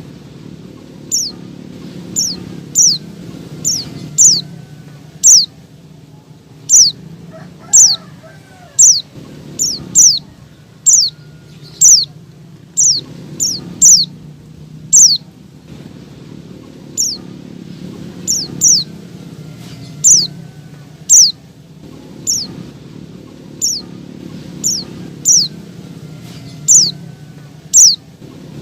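Female white-eye (pleci) calling to males: short, sharp, high notes that slide downward, repeated about one to two times a second in an irregular series.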